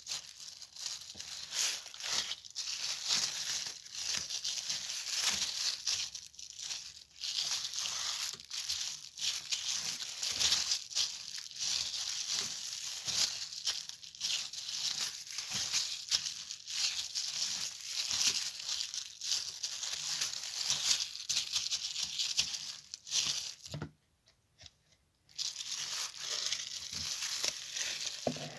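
Slime being squished and stretched by hand, giving a dense, continuous crackling and tearing texture of many small irregular pops. It cuts out briefly about 24 seconds in.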